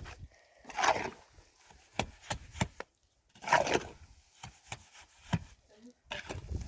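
Irregular knocks and taps of objects being handled, with two brief louder scraping or rustling sounds, one about a second in and one about three and a half seconds in.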